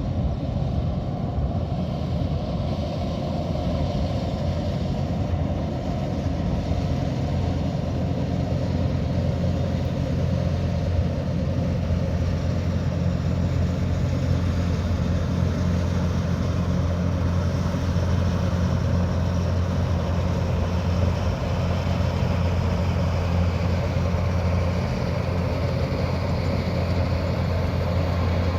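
Kubota DC108X combine harvester's diesel engine running steadily: an even, low drone that holds its pace throughout.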